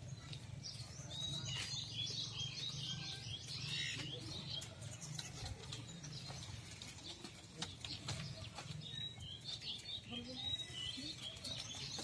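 Small birds chirping and twittering in two spells, over a steady low rumble.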